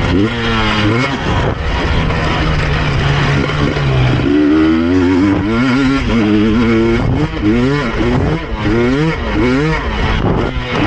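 KTM EXC 250 two-stroke TPI engine under riding load, heard from the helmet's chin guard. It holds a fairly steady pitch for a couple of seconds, then revs up and down over and over in quick swells through the second half.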